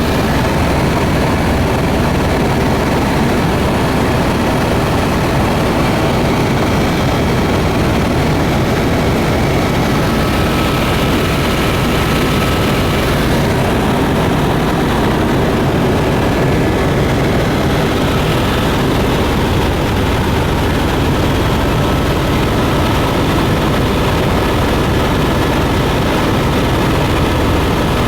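Propeller airplane engines running in steady cruise, a loud continuous drone with a faint steady whine above it.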